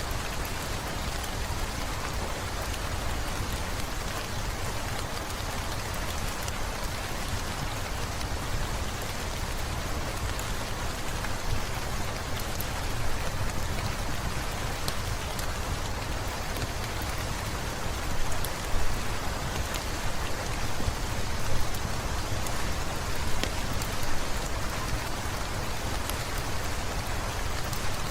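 Heavy rain falling steadily, with a few brief louder swells in the second half.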